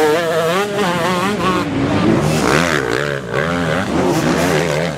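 Several motocross motorcycles racing, their engines revving up and down quickly and overlapping one another, with a short burst of noise a couple of seconds in.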